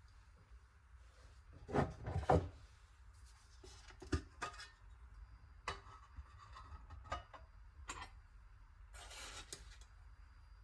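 Kitchen preparation sounds: utensils and containers being handled, with light knocks and clicks, a louder rubbing scrape about two seconds in and a short rustle near the end.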